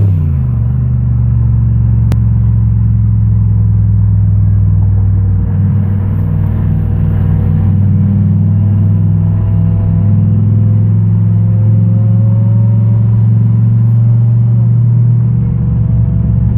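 Car engine and road noise holding a steady low drone at an even pitch, with no revving, as at a steady cruise.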